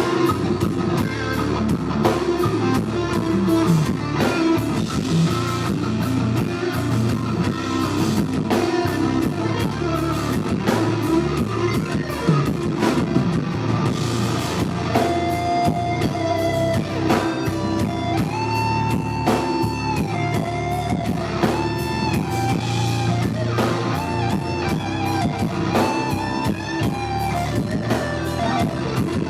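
Live rock band playing: electric guitar over drums and bass, with a lead line of long held notes that bend in pitch in the second half.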